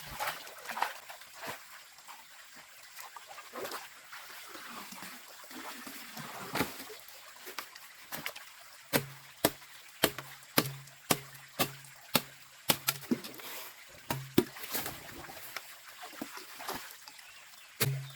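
Water sloshing and splashing during food preparation. About halfway through, a steady run of chopping knocks starts, about two a second, each with a short low thud.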